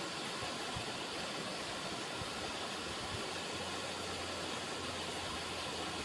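River water running, a steady, even rushing hiss with no pauses.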